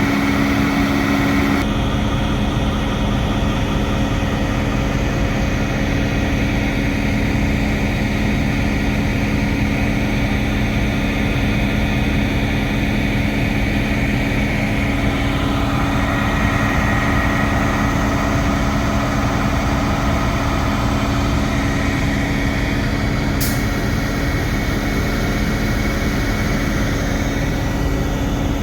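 Diesel locomotive engine running steadily with a held, even drone.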